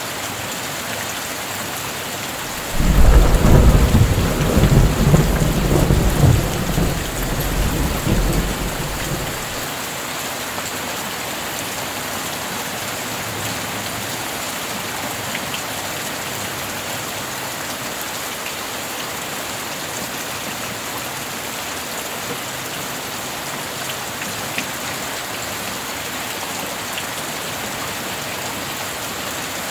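Steady heavy rain with a thunderclap about three seconds in, a sudden deep rumble that rolls for several seconds and fades out by about ten seconds, after which the rain goes on alone.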